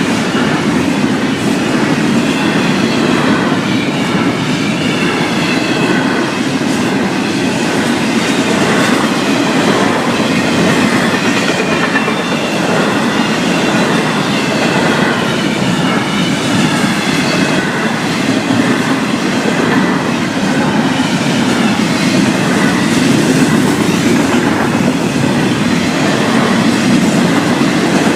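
Florida East Coast Railway freight cars carrying intermodal containers rolling steadily past at a grade crossing: a continuous rumble of steel wheels on rail with the rhythmic clickety-clack of wheels over rail joints.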